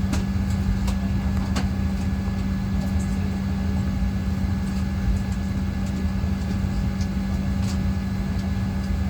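Steady cabin noise inside a Boeing 737-800 on the ground before take-off: a constant hum over a low rumble, with a few faint clicks.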